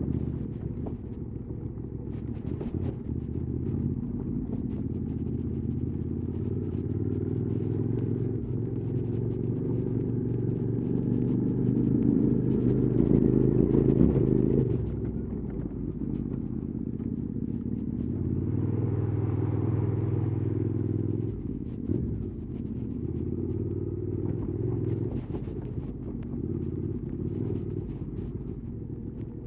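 QJ Motors SVT650X motorcycle's twin-cylinder engine running through an Arrow slip-on exhaust while riding, the engine note rising and falling with the throttle. It builds to its loudest about 14 seconds in, drops off sharply, then picks up again a few seconds later.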